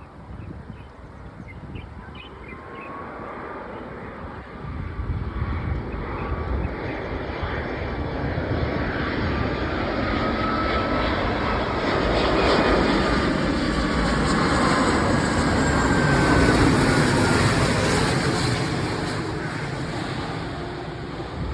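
Jet aircraft flying past. Its engine noise builds over about a dozen seconds, peaks, and fades again, with a whining tone that drifts up and down in pitch.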